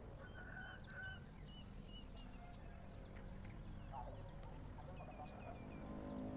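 Faint bird calls: a run of short high chirps, about three a second, then another quick run of chirps near the end, over a low rumble.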